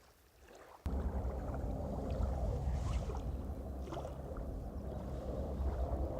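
Wind buffeting the microphone: a steady low rumble that starts suddenly about a second in, with a few faint clicks over it.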